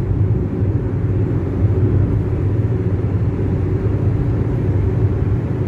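Steady low rumble of a moving car's engine and tyre noise heard from inside the cabin.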